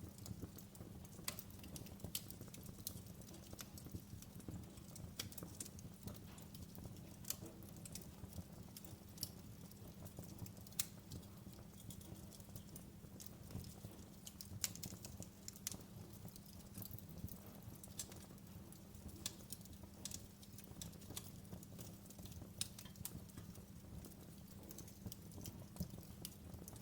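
Wood fire in a fireplace crackling: a low steady rumble with irregular sharp pops and snaps scattered throughout.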